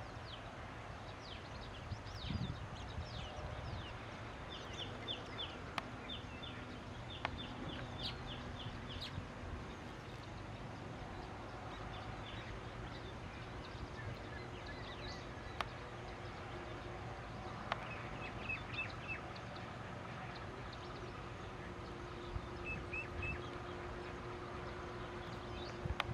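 Birds chirping: several short runs of quick, evenly repeated notes and scattered higher calls, over a steady low hum and a few sharp clicks.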